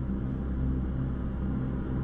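Steady low rumble of a vehicle on the move, engine and road noise heard from inside the cab.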